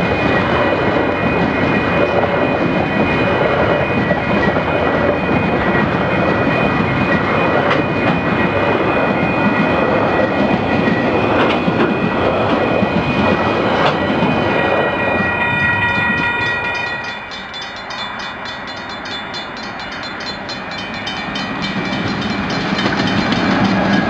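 A train running past at close range: a steady rumble of wheels on the rails, with a few thin, steady high tones over it. It eases off about seventeen seconds in and builds up again near the end.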